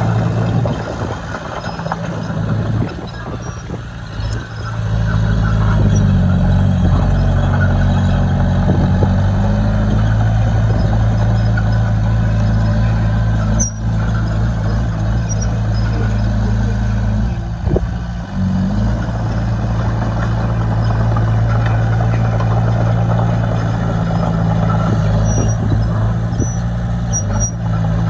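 Diesel engine of heavy earthmoving machinery, a bulldozer or dump truck, running steadily with a low drone. It eases off briefly a few seconds in, then runs on. A few short high squeaks come near the end.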